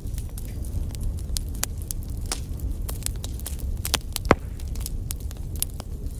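Wood fire burning in a fireplace: a steady low rumble of flames with irregular crackles and snaps, and one louder pop about four seconds in.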